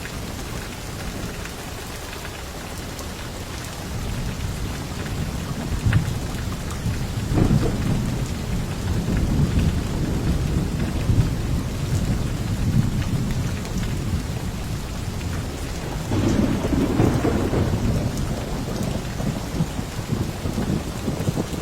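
Steady rain with rolling thunder: a low rumble builds about seven seconds in, and a stronger roll swells around sixteen seconds.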